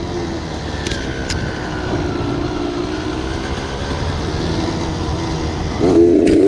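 Dirt bike engine running at part throttle, its pitch wavering with the throttle, then revving up louder near the end. There are two sharp clicks about a second in.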